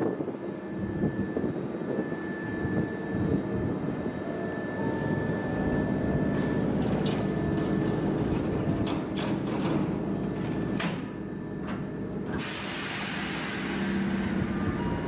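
Hankyu 5300-series electric commuter train standing at a platform, its equipment humming steadily with a thin whine. About nine to eleven seconds in, the doors slide shut with a few knocks. Then a loud hiss of air comes as the air brakes release before the train departs.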